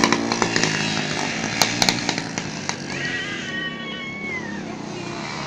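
Small motorcycle engines revving hard during a dirt race. About three seconds in, a whining engine note climbs, holds, and then falls away, with scattered sharp clicks throughout.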